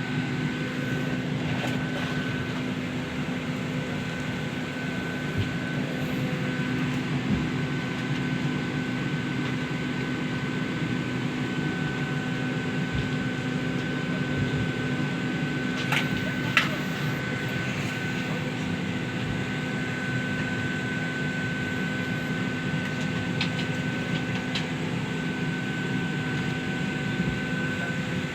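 Steady hum and hiss inside an airliner's passenger cabin, with a faint steady whine over it and a couple of sharp clicks about sixteen seconds in.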